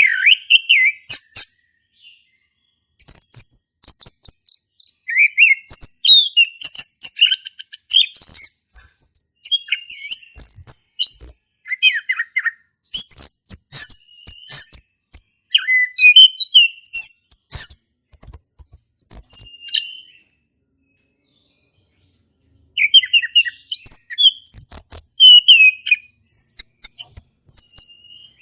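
A male chestnut-capped thrush singing a full, continuous song of quick, varied whistled and chattering phrases, with two short pauses, one near the start and one about two-thirds of the way through.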